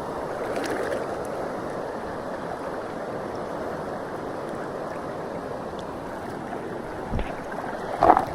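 Steady rush of river water flowing. There is a brief low thump about seven seconds in and a short knock just before the end.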